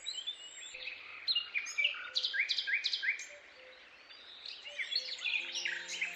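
Wild birds singing and chirping, with a quick run of repeated chirps in the middle, over faint outdoor background noise.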